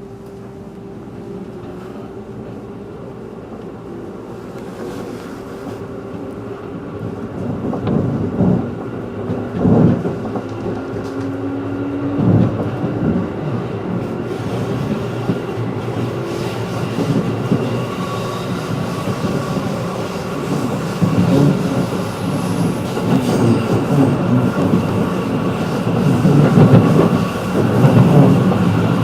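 Inside a 211-series electric train pulling away and picking up speed: the running noise of wheels and motors grows steadily louder, with a few heavy wheel knocks about a third of the way in and rail clatter building toward the end.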